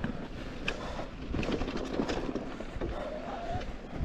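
E-mountain bike rolling down a loose, slippery dirt trail: a steady crunch of tyres on dirt, with scattered clicks and rattles from the bike.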